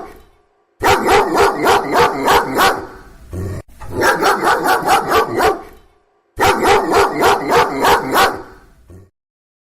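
Dog barking in three quick runs of about seven barks each, roughly three barks a second, with short pauses between the runs.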